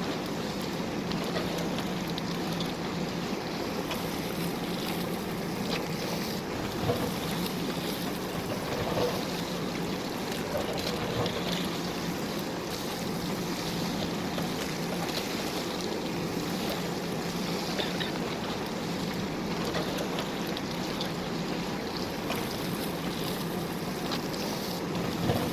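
JCB backhoe loader's diesel engine running steadily as it works, with a few short knocks scattered through.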